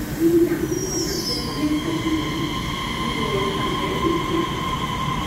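Taiwan Railway EMU3000 electric train rolling slowly along the platform: a steady rumble with steady high-pitched whine or squeal tones from its running gear. A short falling whine comes about a second in.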